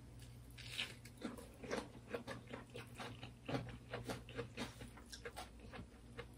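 Eating sounds: crunching bites and chewing of raw cucumber slices and mouthfuls of curry, in quick irregular crunches and smacks a few per second.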